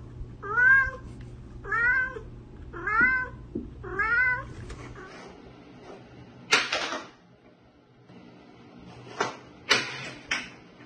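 Domestic cat meowing four times, about a second apart, each meow rising then falling in pitch. In the second half come a few short, rough noisy sounds, three of them close together near the end.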